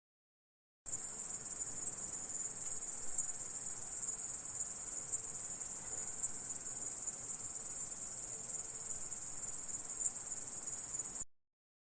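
Stridulating insect giving a continuous, high-pitched buzzing trill that holds steady. It starts abruptly about a second in after dead silence and cuts off suddenly near the end, as in a looped sound-effect clip.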